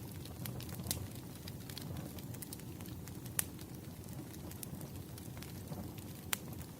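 Fireplace fire crackling: scattered sharp pops over a steady low rumble, the loudest pop about three and a half seconds in and another near the end.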